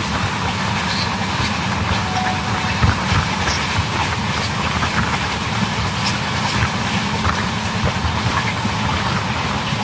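Running noise of an LHB passenger coach at speed: steady wheel-on-rail noise with scattered clicks and a sharper knock about three seconds in.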